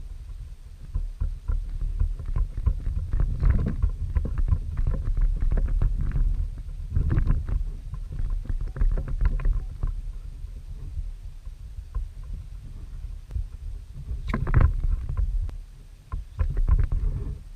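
Water splashing and slapping against a kayak in a strong wind, in irregular clusters of short splashy crackles over a steady low rumble of wind on the microphone.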